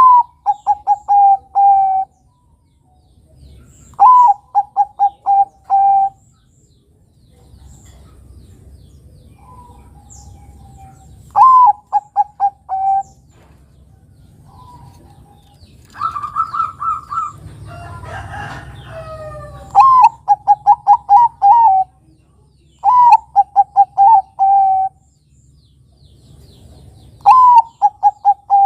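Zebra dove (Bangkok-type perkutut) cooing: a phrase of quick, clipped notes ending in a longer held note, repeated every few seconds. Around the middle a different, longer call with some rough noise comes in.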